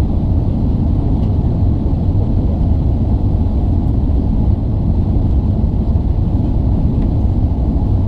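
Steady low rumble inside the cabin of an Airbus A380-861, from its Engine Alliance GP7200 engines and the airflow around the fuselage.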